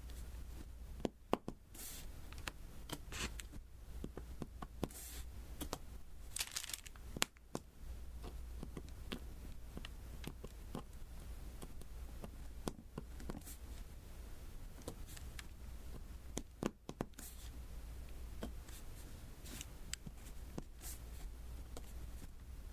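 Diamond-painting work on a sticky canvas: a scattered run of small, sharp taps and clicks as resin drills are pressed on, with a few brief sticky rasps.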